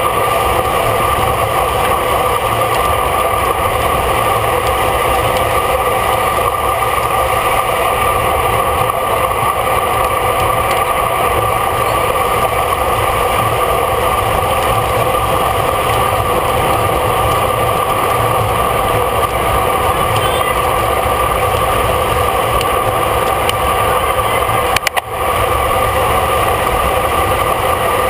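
Steady wind and road noise on a bicycle-mounted camera while riding at race speed, with one brief dip about 25 seconds in.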